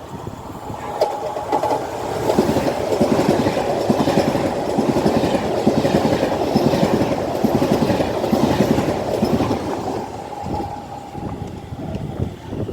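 A train passing, its wheels clacking rapidly over the rail joints. The sound builds about two seconds in and eases off near the end, with a steady whine underneath.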